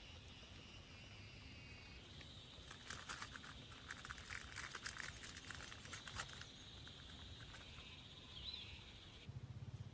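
Steady high-pitched insect chirring, with a quick run of faint clicks and crackles in the middle and a brief bird chirp near the end.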